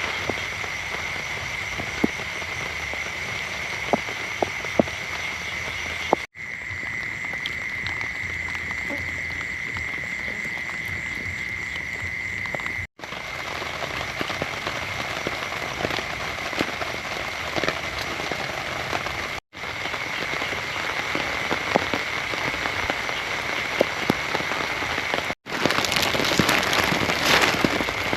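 Rain falling with scattered drop ticks under a steady chorus of frogs calling, broken by brief gaps about every six seconds. Near the end the rain grows louder and the frog chorus fades.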